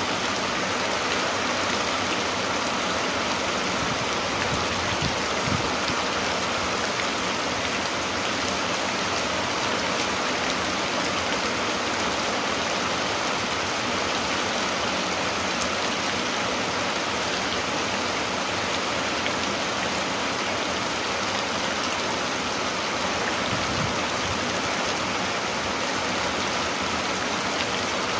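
Steady rain falling, an even hiss that holds unbroken throughout.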